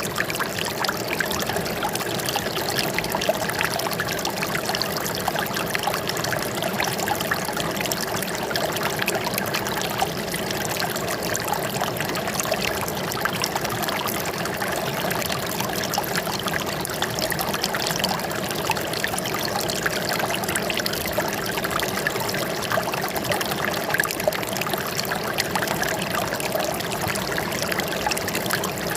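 Running water flowing and trickling steadily, an even unbroken rush.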